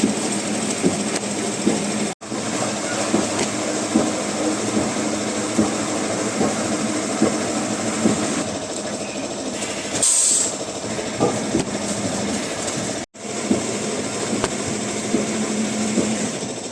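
Wood-processing machinery running steadily, with a low hum and about one knock a second. There is a short hiss about ten seconds in, and the sound cuts out abruptly twice.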